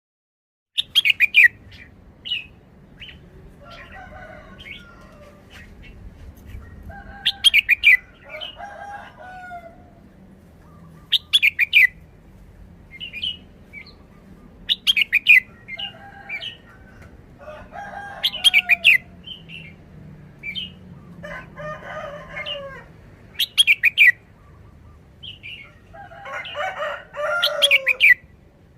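Red-whiskered bulbul singing: short, loud, sharp song phrases repeated every three to four seconds, with softer, lower chattering calls between them. It starts about a second in.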